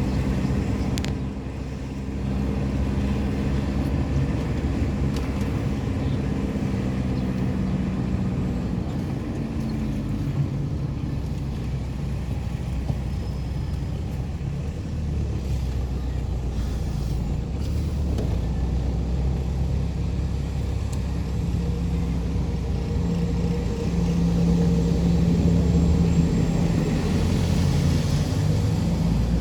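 Heavy engines of road-building machinery running steadily during asphalt paving, a low continuous hum that grows louder near the end.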